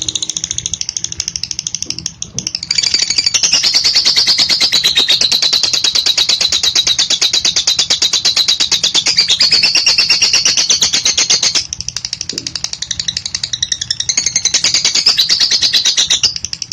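Lovebird's long chattering trill ('ngekek panjang'): a fast, even run of sharp high notes held for many seconds. It starts softer, grows louder about three seconds in, dips briefly about two-thirds of the way through, then picks up again until near the end.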